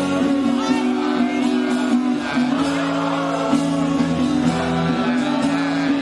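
Live rock band playing, with voices singing and shouting along.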